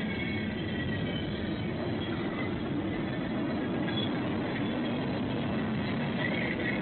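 A train passing, with a steady rumble of wheels on rail and faint high squeals.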